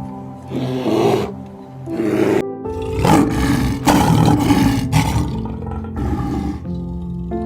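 A big cat roaring and growling in several rough bouts, loudest in the middle, over background music with long held notes.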